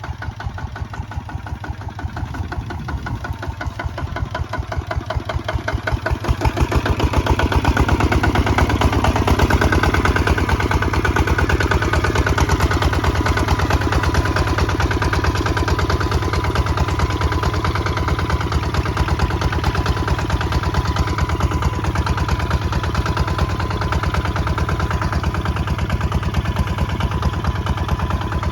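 Kubota ZT155 DI walking tractor's single-cylinder diesel engine running with a rapid, even beat of firing strokes while plowing. It grows louder about seven seconds in, then holds steady.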